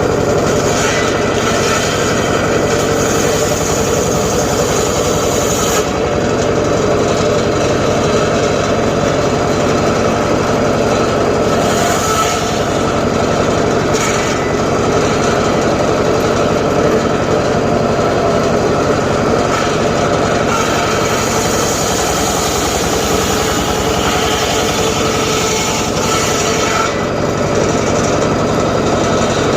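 Homemade circular saw running steadily with a constant mechanical drone while it rips teak. A higher hiss from the blade in the wood comes and goes: through the first several seconds, briefly near the middle, and again for several seconds near the end.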